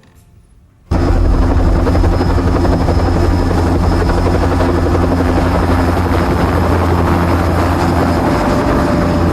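Helicopter running steadily and loudly, its rotor and engine noise cutting in suddenly about a second in after near quiet.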